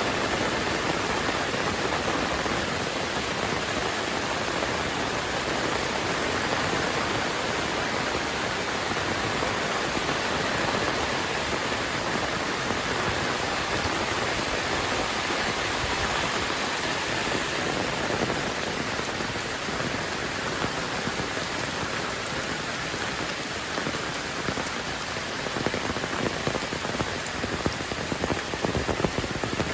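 Heavy rain pouring steadily, an even hiss of drops, with sharper, closer drop hits coming through over the last few seconds.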